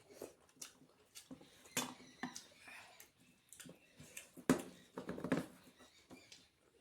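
Close-up eating sounds: wet chewing and lip smacks at an irregular pace, with small clicks and taps. The sharpest knock comes about four and a half seconds in, followed by a short flurry of smacking.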